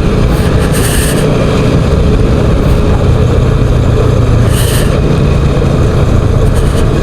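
Motorcycle engine running steadily while riding along the road, mixed with loud, even wind rush on the microphone and two brief louder hissy gusts.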